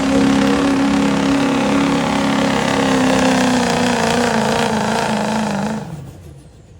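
Pulling vehicle's engine running hard at high revs, its pitch slowly sagging, then the sound falls away sharply near the end.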